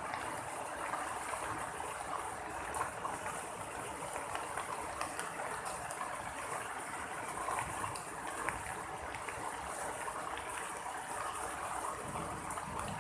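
Steady rain falling, an even hiss with scattered sharp ticks of drops striking nearby surfaces.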